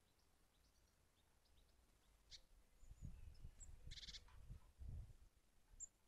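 Faint garden bird calls: a few short high chirps and a brief buzzy rattle a little after the middle, over low muffled thuds.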